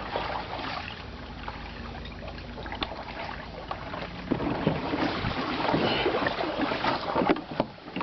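Kayak paddling: paddle blades dipping and splashing in the water, with splashing growing louder about halfway through. Wind rumbles on the microphone in the first half.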